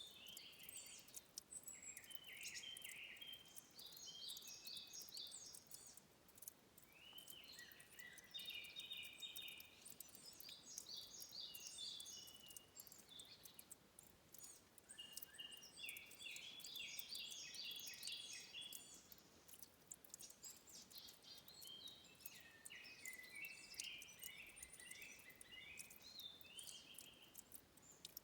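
Faint, high chirping calls in short repeated trills, several callers overlapping at different pitches and starting up every few seconds, over a soft steady hiss of forest ambience.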